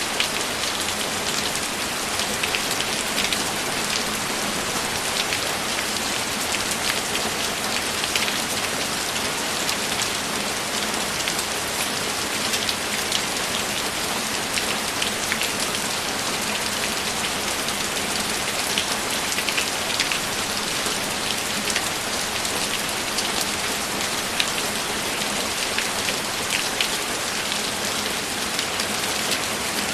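Steady, heavy rainfall: a dense even hiss of rain with scattered individual drops ticking close by.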